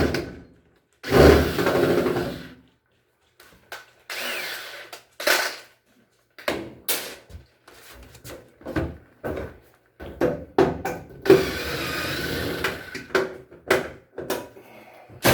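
Repair work on an LG washing machine: a power drill runs in short bursts, about a second in and again near 11 to 13 seconds, between many short metal clicks and knocks from tools and parts being handled.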